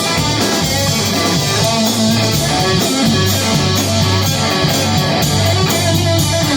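Rock band playing: strummed electric guitar over a bass line and a steady drum beat.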